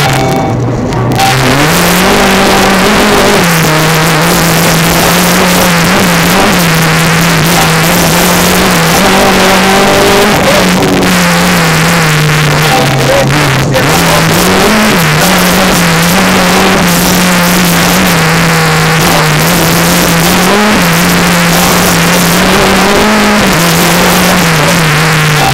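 Rally car's engine heard from inside the cabin, its revs rising and falling repeatedly through the gear changes and corners. A steady rush of tyre and gravel noise from the loose forest track runs under it.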